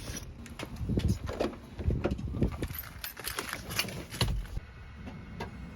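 Keys jangling and small objects clattering as they are handled, a run of irregular clicks and knocks that stops about four and a half seconds in.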